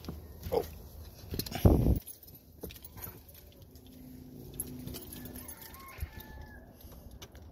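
Rustling, shuffling and bumps of a toddler clambering up into a car's driver seat, with one loud low thud about a second and a half in. A few faint pitched calls sound in the background near the middle.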